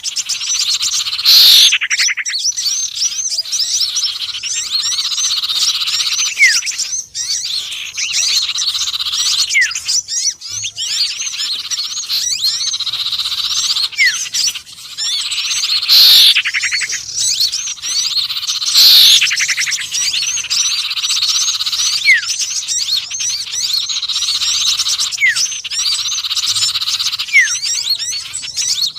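Bird-lure recording mixing sirtu, konin and sepah raja calls: dense high chirping and twittering with short falling whistles every few seconds. A loud downward-sweeping call cuts in near the start and twice around the middle.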